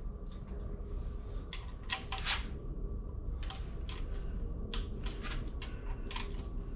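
Irregular light clicks and taps of a hand wrench working bolts on a Northstar engine, about a dozen over several seconds with a close pair about two seconds in, as bolts are snugged and checked for tightness.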